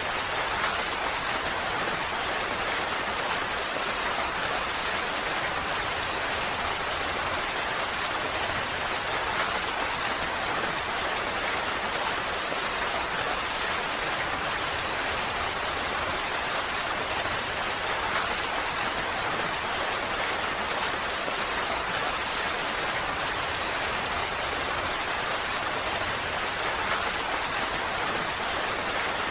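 Steady rain falling, an even hiss with faint individual drop ticks now and then.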